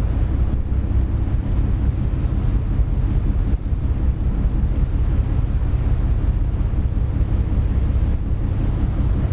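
Wind buffeting the microphone over the steady low drone of a small car ferry under way.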